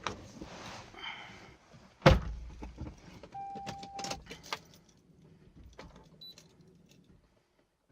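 Getting into a car to start it: a car door shuts with a loud thump about two seconds in, then keys jangle and click, with one short electronic beep from the car in the middle.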